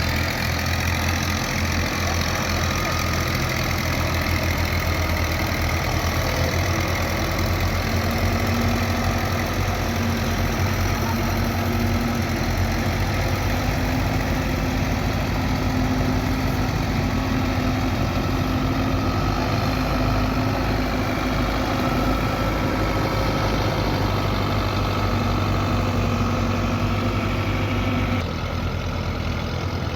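Belarus tractor's diesel engine running steadily while pulling a loaded sugarcane trolley, with a low, even beat. The sound drops slightly near the end.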